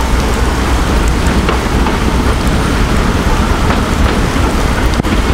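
Heavy monsoon rain hissing steadily, over the constant low rumble of a moving narrow-gauge train.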